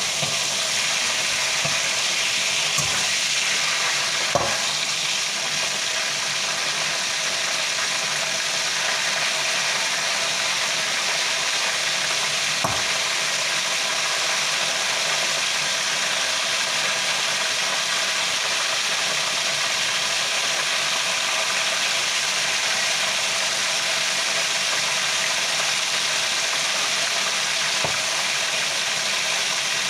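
Chicken frying in hot oil in a pan: a steady sizzle, with a few sharp clicks as the utensil knocks against the pan while the pieces are turned.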